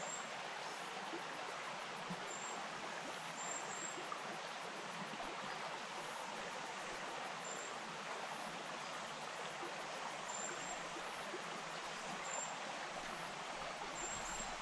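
Small bush stream flowing steadily over stones, a constant rushing and babbling. Faint high-pitched insect trilling pulses over it about every second and a half, with a few brief high chirps.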